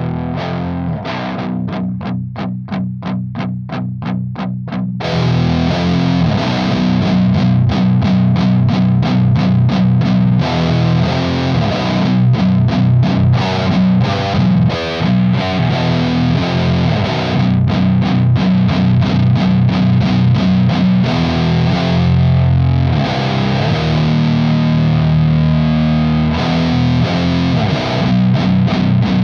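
Distorted electric guitar with passive pickups, tuned to B standard, played through an FGE The Mountain overdrive/distortion/fuzz pedal into a Sunn Beta Lead in a heavy doom riff. It opens with short, evenly picked notes about four a second, then about five seconds in it turns louder and brighter, with ringing, saturated chords and chugs.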